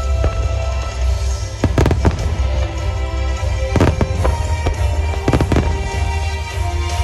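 Aerial firework shells bursting: a string of sharp booms and cracks, bunched around two seconds in, four seconds in and five and a half seconds in, over a constant deep rumble. Music plays along under the bursts.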